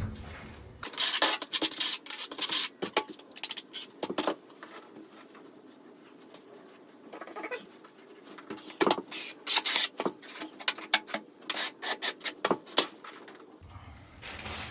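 Irregular scraping and rubbing strokes of a trowel working thinset mortar against porcelain tile, while wall tiles are set and mortar is worked. The strokes come in clusters, busiest in the first few seconds and again from about nine to thirteen seconds in.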